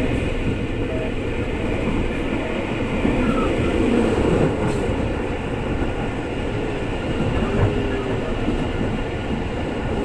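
Electric commuter train running, heard from inside the carriage: a steady rumble and hiss, with a few brief whines that rise and fall in pitch now and then.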